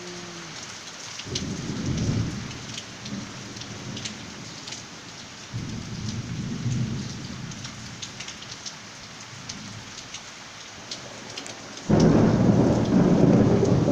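Heavy rain falling steadily, with single drops tapping sharply close by. Deep rumbles swell under it twice, then a louder one starts abruptly near the end.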